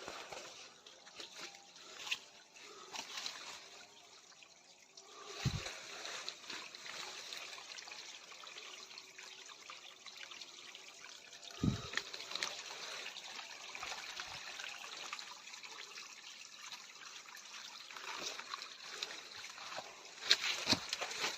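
Water trickling, with two dull thumps, one about five seconds in and one about twelve seconds in.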